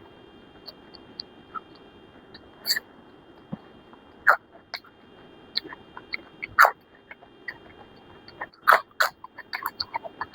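Close-up eating sounds: wet chewing and lip smacks in an irregular run of short clicks, with a handful of louder smacks.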